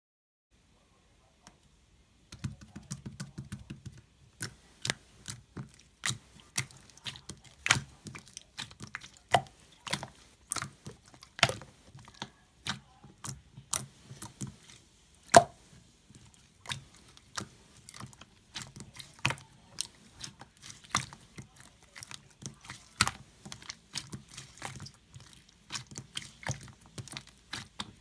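Irregular sharp clicks and taps, roughly one or two a second, starting about two seconds in, over a faint low buzz that comes and goes.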